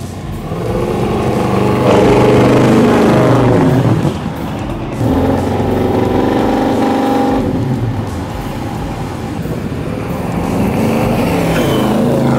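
Twin-turbocharged 540 ci V8 of a 1961 Chevrolet Impala pulling under acceleration. The engine note climbs and falls in surges, easing off about four seconds in and again around eight seconds before building once more.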